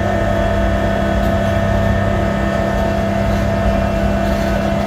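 Amusement-park train running steadily along its track: a constant engine drone holding a few fixed tones over a low rumble.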